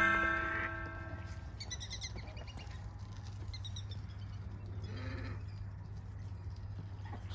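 Struck chime tones ring out and fade away in the first second. Then Muscovy ducks call faintly: a few short high chirps about two seconds in and a longer call about five seconds in, over a steady low hum.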